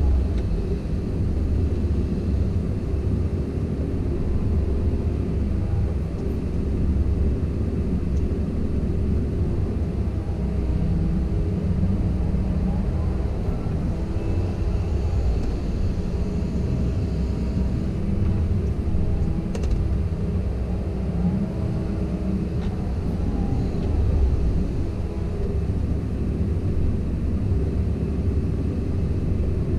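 Komatsu PC170LC-10 excavator's four-cylinder diesel engine running steadily under working load, its pitch shifting slightly as the machine works. Two faint sharp clicks come about two-thirds of the way through.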